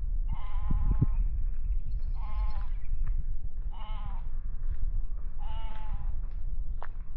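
Sheep bleating: four wavering calls, roughly one every second and a half, over a steady low rumble.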